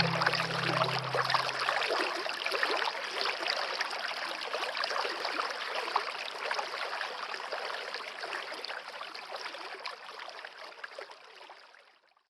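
Running water of a stream, trickling steadily and fading gradually to silence near the end. The last held notes of soft music die away about two seconds in.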